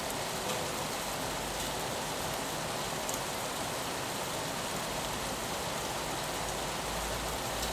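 Steady rain falling on a window pane, with scattered drop ticks and a low rumble coming up near the end.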